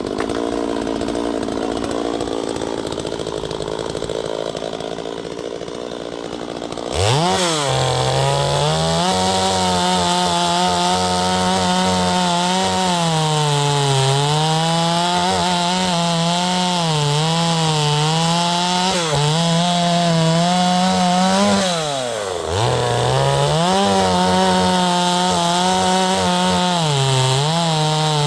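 Neotec NS846 45.4cc two-stroke chainsaw, a Stihl MS 250 clone, running steadily, then revved up about seven seconds in and cutting into cherry wood, the engine pitch sagging and recovering as the chain bites. About two-thirds of the way through the throttle drops off briefly and the saw revs back up to keep cutting.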